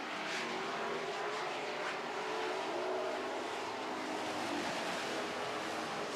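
Several dirt-track Super Truck race engines running together around the oval, a steady mixed drone with pitches shifting as the trucks go through the turns.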